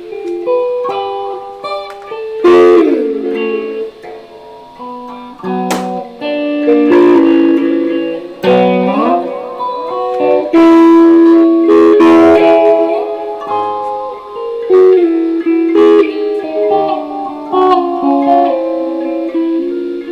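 Electric guitar played solo and recorded through a microphone. It plays single picked notes and short phrases, with sliding notes and string bends.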